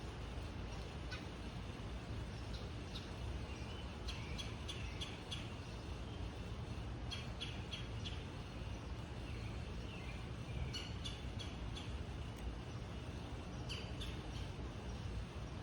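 Wild songbirds giving short high chirps in quick clusters every few seconds, over a steady low rumble of background noise.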